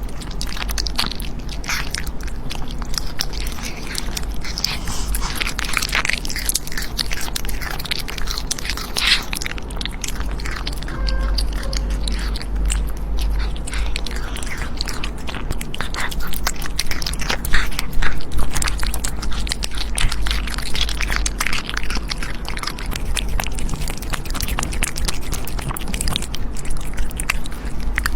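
An animal crunching and chewing food close to the microphone: a dense run of sharp bites and crunches over a steady low rumble.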